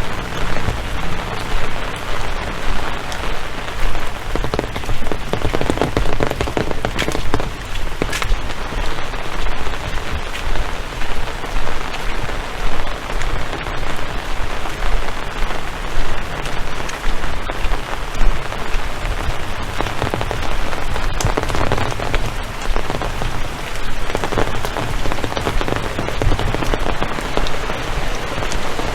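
Heavy rain falling and pattering on surfaces close by, a steady loud noise that swells and eases.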